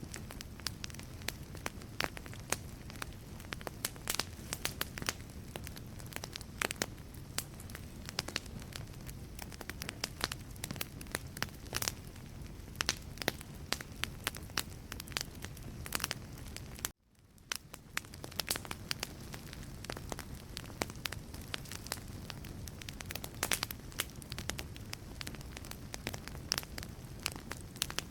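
Wood fire in a fireplace crackling, with sharp irregular pops and snaps over a steady low rumble. About halfway through, the sound cuts out for a moment and fades back in.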